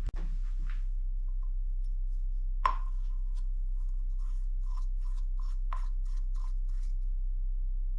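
A sharp metallic click with a short ring, then a run of about ten light metallic taps, about three a second, each with a brief ring: hand tools working small metal parts during hydraulic brake hose assembly. A steady low hum lies beneath.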